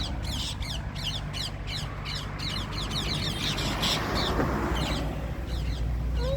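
Birds chirping and chattering in a rapid run of short, high, falling calls several a second, which thins out after about two seconds into scattered calls.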